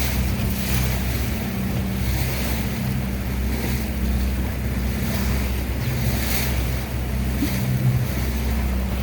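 Boat engine running with a steady low drone, with water washing along the hull and wind on the microphone swelling every second or two.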